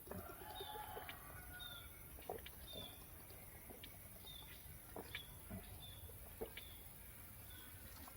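Faint, repeated short high chirps from a bird, a slightly falling note every half second to a second, with scattered clicks and taps.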